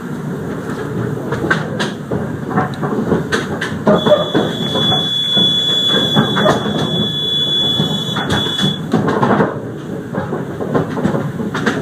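Narrow-gauge heritage train running along the track, a steady rumbling rattle with scattered clicks of the wheels over the rails. A thin, steady high-pitched whine rises over it for about five seconds in the middle.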